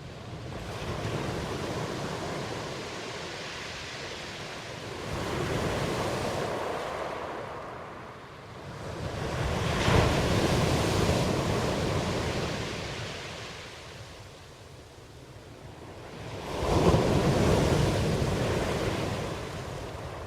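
Ocean surf: waves washing in and drawing back in four slow surges, the last rising sharply near the end.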